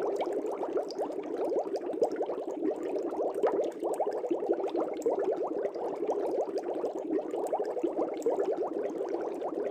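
Steady stream of air bubbles rising and burbling in an aquarium: a dense, unbroken patter of small bubbling blips.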